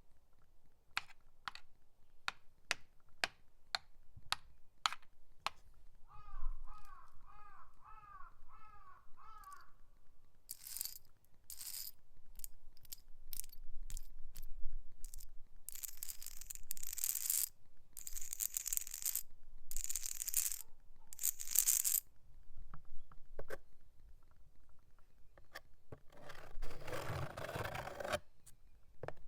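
A nail worn on a fingertip tapping, then scratching on surfaces. It starts with a run of sharp taps, about two a second. Scratch strokes of a second or two each run through the middle, and a longer scratch comes near the end.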